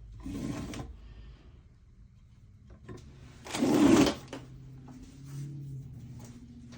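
Two short sliding scrapes of an object moved across a surface. The second, about three and a half seconds in, is louder and lasts under a second.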